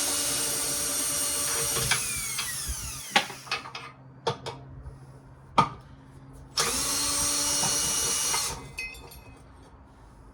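Power drill driver running twice for about two seconds each, backing out fasteners, with its pitch falling away as the trigger is let go. Between the runs there are a few sharp knocks of metal parts.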